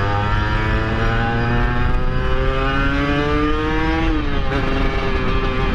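Kawasaki Ninja R's two-stroke single-cylinder engine pulling under acceleration. Its pitch climbs slowly for about four seconds, then drops at a gear change and holds steady. The bike feels very heavy, pulling sluggishly, and its cylinder block is worn and due for a rebore.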